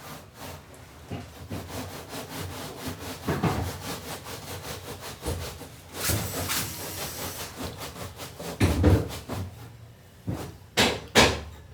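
Panels of PET insulation being pushed and shuffled into the gap between wooden bulkhead walls: rubbing and scraping against the wood, with a few sharp knocks near the end.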